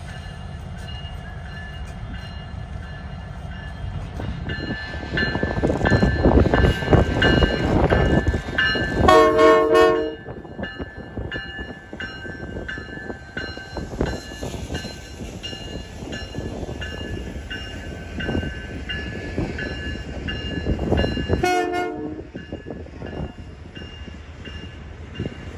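A passing freight-style holiday train rumbles steadily, growing louder for several seconds with rapid wheel clatter. Its locomotive horn sounds two short blasts, one about nine seconds in and another about twenty-one seconds in.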